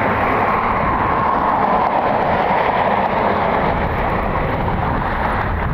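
Steady, loud jet aircraft engine noise: a broad rushing sound with no pauses and no clear separate tones.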